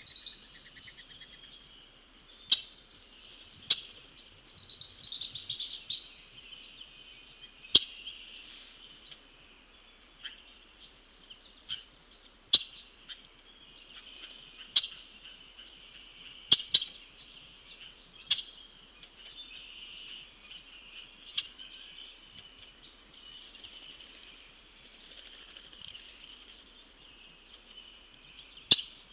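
Songbirds singing and chirping steadily, with a trill about four seconds in. Sharp single knocks every few seconds, which are the loudest sounds, come from the pileated woodpecker pecking at the suet feeder.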